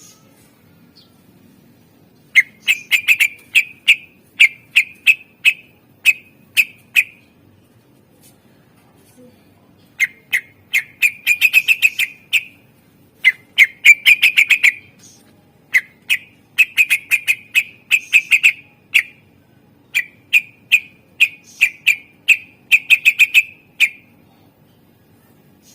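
A cucak ijo (green leafbird) singing in loud bursts of rapid, sharp repeated notes, about five phrases separated by short pauses.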